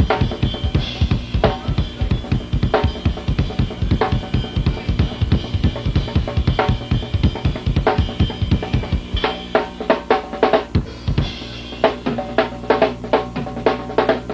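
Go-go drum kit solo played live, driven by a busy bass-drum pattern with a sharp snare hit about every second and a half. About nine seconds in the drumming gets denser and a low held bass note comes in under it.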